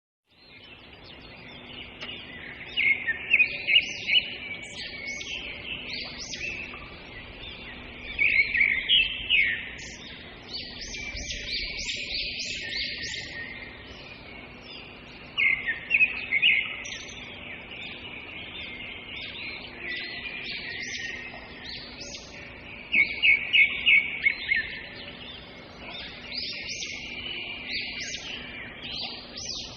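Small songbirds chirping and twittering continuously, with loud bursts of rapid chirps every few seconds.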